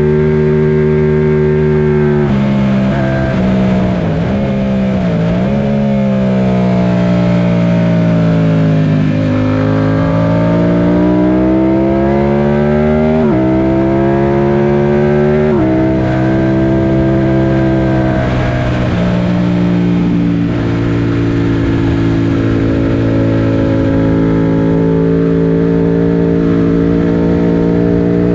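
Yamaha FZ-07's parallel-twin engine at speed on a racetrack. Its pitch dips twice and rises again in the first few seconds, climbs steadily, then drops suddenly twice, about 13 and 16 seconds in, as it is shifted up, and holds high and steady after that, under a constant rush of noise.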